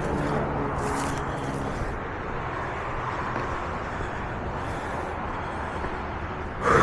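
Steady rushing noise of an electric mountain bike being ridden on a dirt trail, wind and tyre noise, with a faint steady motor tone in the first two seconds. A brief louder sound rises just before the end.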